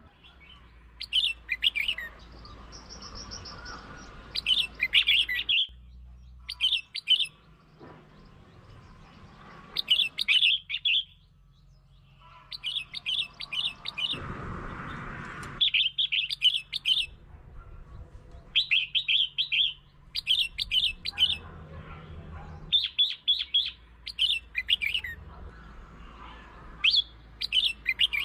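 Red-whiskered bulbul singing: short phrases of quick chirping notes, repeated every second or two, used as a lure call to provoke other bulbuls.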